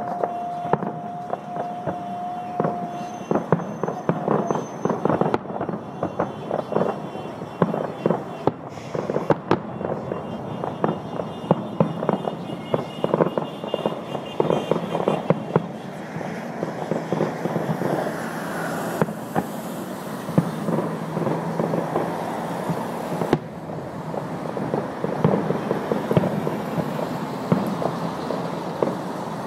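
Fireworks display going off: a dense, continuous run of bangs and crackles, with a steady held tone in the first few seconds.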